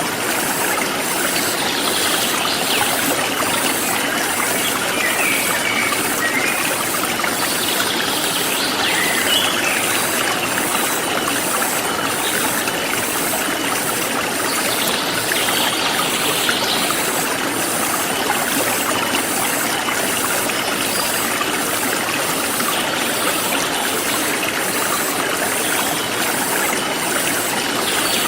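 Forest stream flowing steadily, with insects chirping in a regular high pulse about twice a second and a few short bird chirps now and then.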